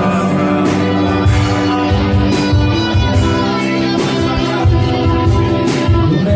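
Live band playing an instrumental passage: guitar over steady bass notes, with sharp hits keeping a regular beat.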